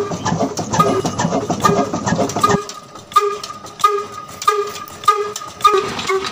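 Single-cylinder stationary diesel engine sound, as of the miniature engine driving its belt water pump: a busy clatter for the first two and a half seconds, then a slow, even chugging of about two beats a second that quickens slightly near the end.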